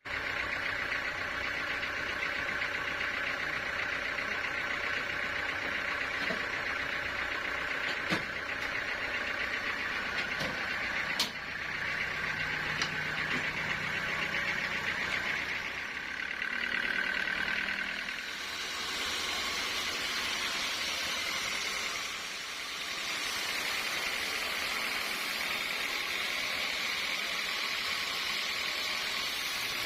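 Sawmill machinery running steadily, with a few sharp knocks; about halfway through the sound turns brighter and hissier.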